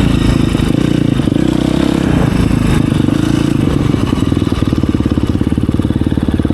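Dirt bike engine running loud, with some revving early on, then settling into an even, low-speed firing rhythm about four and a half seconds in.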